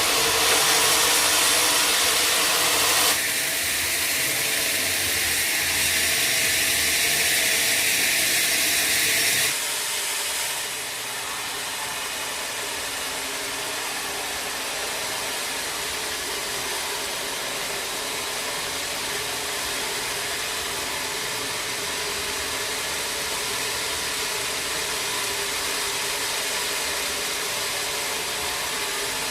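Sawmill machinery running with a steady, noisy hum. The sound changes abruptly about three seconds in and turns quieter about ten seconds in.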